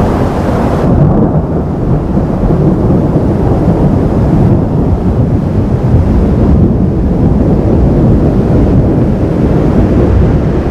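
Thunderstorm: a loud, steady low rumble of rolling thunder mixed with wind buffeting the microphone. A brighter edge to the noise fades about a second in.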